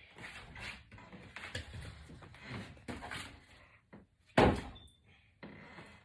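Rustling and scraping of box braids being handled and unravelled by hand, in irregular strokes, with one sharp loud knock about four and a half seconds in.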